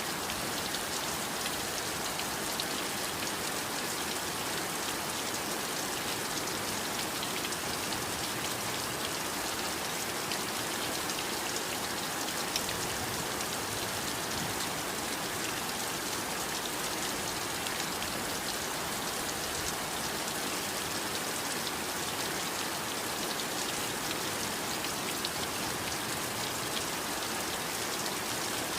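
Steady heavy rain falling, a dense, even hiss of drops with fine pattering, steady in level throughout.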